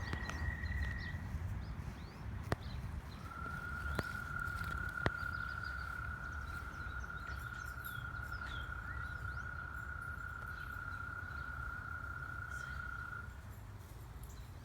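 Outdoor ambience: scattered bird chirps over a low rumble, with a steady whistle-like tone held for about ten seconds. Three sharp clicks come a few seconds in.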